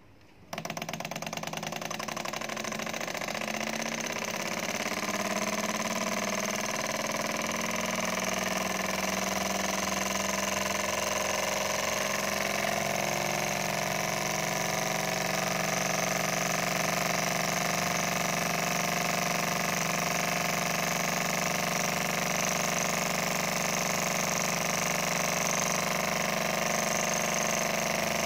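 Small model Stirling engine running. It starts suddenly, its pitch rises over the first dozen seconds as it gathers speed, and then it runs at a steady speed.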